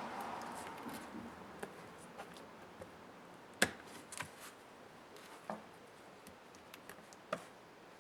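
Laptop parts being handled during disassembly: a soft scraping that fades over the first second or so, then scattered small clicks and taps, the sharpest about three and a half seconds in.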